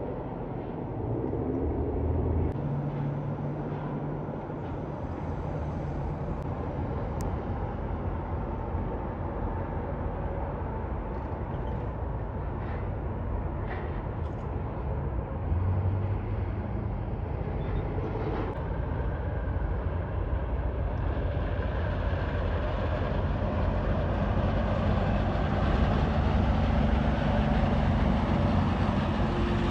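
Road traffic with heavy trucks: a continuous low engine rumble that grows louder over the last third.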